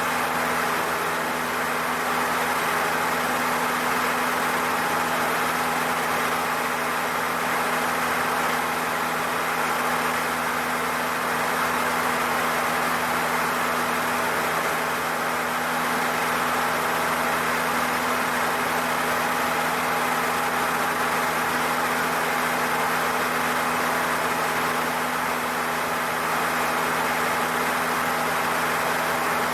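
Cessna 152's four-cylinder Lycoming engine and propeller droning steadily in cruise, heard inside the cockpit as an even hum with a constant hiss and no change in pitch.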